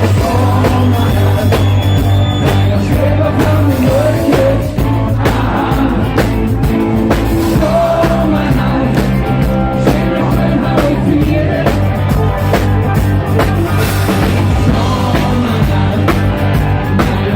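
Dansband playing live on stage: drum kit, bass and melody instruments in a steady, up-tempo beat.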